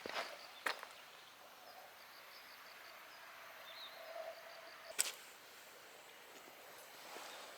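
Quiet ambience with faint high ticking, broken by two short sharp clicks, one under a second in and a louder one about five seconds in.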